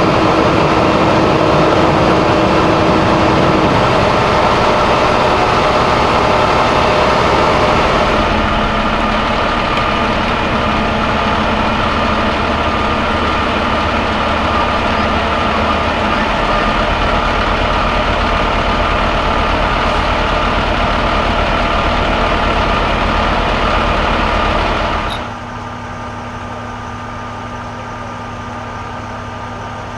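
Heavy vehicle engines running steadily at close range. About 25 seconds in the sound drops off abruptly, leaving a quieter, steady engine hum.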